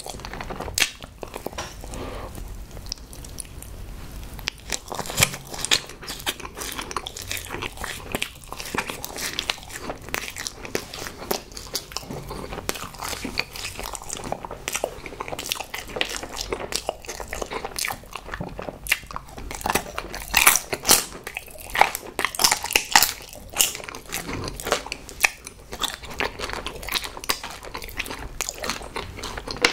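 Close-miked chewing and biting of chocolate-coated sweets, a dense run of small crunches and mouth clicks, with the loudest bites about two-thirds of the way through.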